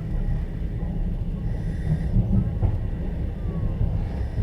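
Inside a moving Russian platzkart sleeper carriage: the steady low rumble of the wheels and running gear on the track. A hiss swells for under a second about every two and a half seconds, and a single light knock sounds about two-thirds of the way through.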